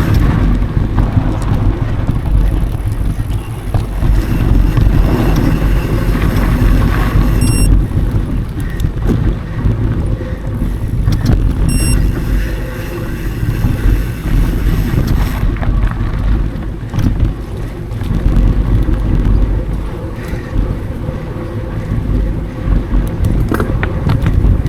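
Wind buffeting an action camera's microphone over the steady rumble and rattle of a mountain bike rolling fast over dry singletrack. Two short high beeps come about four seconds apart.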